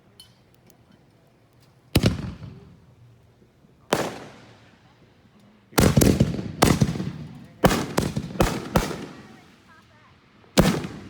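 Consumer fireworks going off: about ten sharp bangs at uneven intervals, several coming in quick pairs, each trailing off in an echo.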